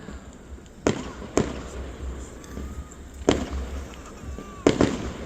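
Fireworks going off: five sharp bangs at uneven intervals, the last two in quick succession.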